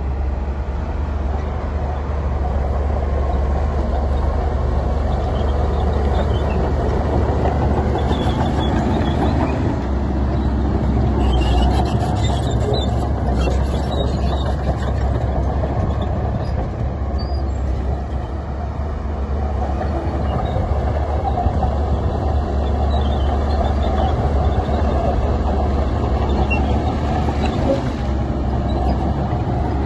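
Heavy diesel earthmoving machinery running steadily with a deep engine drone, with some metallic clatter about halfway through.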